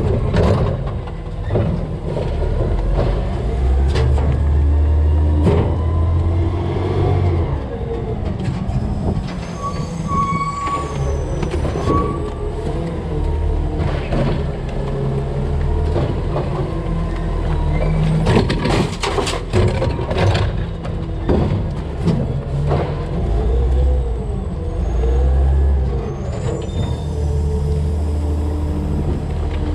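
DaDee Scorpion garbage truck on a CNG Peterbilt 320 at work: engine and hydraulics running steadily, with repeated bangs and clatter as garbage is dumped into the hopper.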